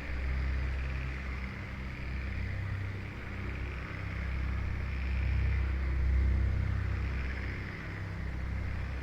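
Ambient music of low, sustained drone notes over a steady rushing hiss of rainforest ambience that slowly swells and fades.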